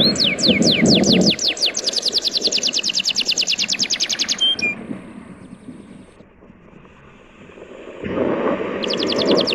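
A bird's fast trill of down-slurred chirps, about nine a second, that stops about halfway through and starts again near the end. A wash of surf sits under it at the start and again near the end.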